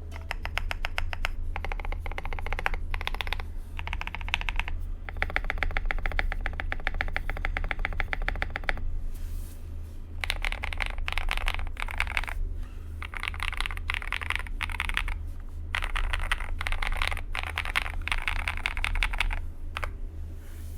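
Fast typing on a CIY Tester68 custom mechanical keyboard with lubed KTT Kang White linear switches on a steel plate, tape-modded, with dye-sub MOA keycaps. The keystrokes come in quick runs of one to four seconds with short pauses between, over a steady low hum.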